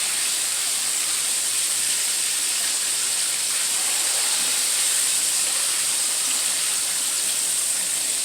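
Chicken wings frying in hot oil, a steady sizzle.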